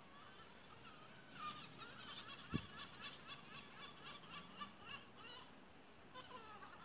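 Faint bird calls: a quick run of wavering chirps lasting a few seconds, with a single dull thump about two and a half seconds in.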